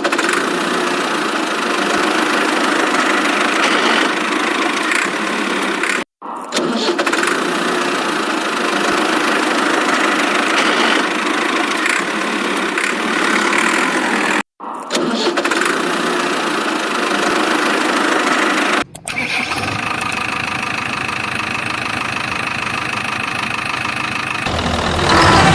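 Engine sound, starting and running, thin and without low bass, broken into segments by abrupt cuts at about 6, 14 and 19 seconds. After the last cut it turns into a steadier sound with held tones.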